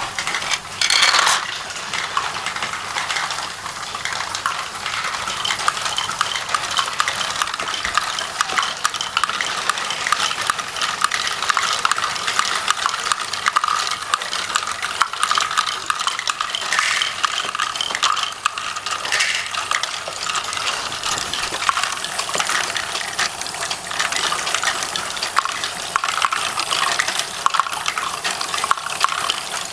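Small plastic Lego pieces clattering and clicking against each other in a dense, unbroken stream, with a louder burst about a second in.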